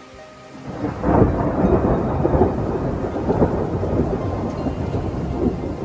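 Thunder: a clap breaks about a second in and rolls on as a long, loud rumble.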